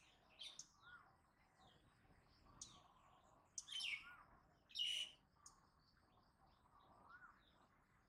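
Backyard birds calling: short, sharp high chirps come in clusters, the loudest about three and a half and five seconds in. Under them, a fainter bird repeats a rising-and-falling whistle every second or two.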